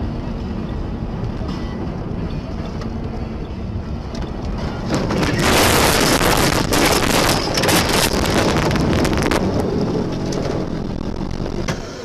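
Wind and road noise on a dashcam microphone in a moving vehicle, swelling for about five seconds in the middle into a louder, rougher rush full of clicks and rattles, then easing back down.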